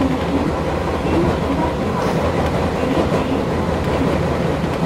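Electric commuter train running along the track, heard from inside the passenger car: a steady low rumble of wheels and car body.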